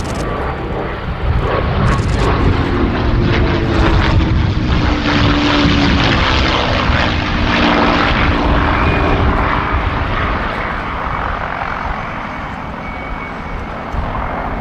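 Packard Merlin V-12 engine of a P-51D Mustang passing by in a display flypast. The engine note swells over the first few seconds, falls in pitch as the aircraft goes past, and eases off near the end.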